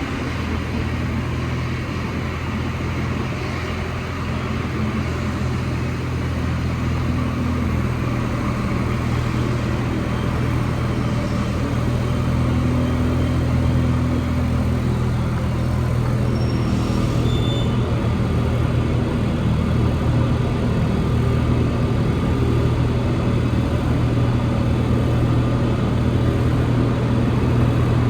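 Cabin noise inside an Alstom NS-74 rubber-tyred metro car running between stations: a steady low hum of motors and rolling, growing gradually louder. A few brief high whining tones come about two-thirds of the way through.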